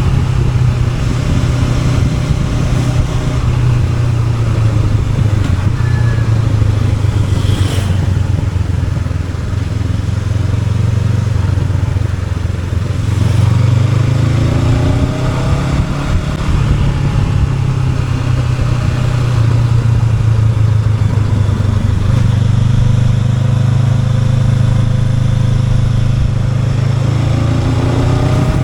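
Honda NX500's parallel-twin engine running steadily under way, with the revs climbing twice: around the middle and again near the end.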